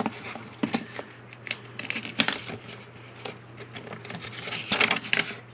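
Paper and parcel packaging rustling and crinkling as it is handled, with small irregular clicks and taps over a steady low hum.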